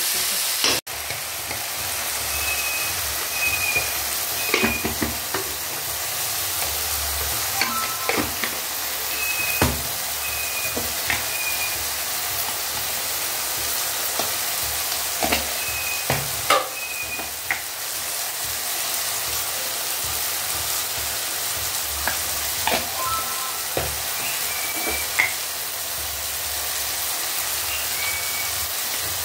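Chopped tomatoes, onions and green chillies sizzling as they fry in oil in a kadhai, a steady hiss. A metal spatula scrapes and clinks against the pan now and then.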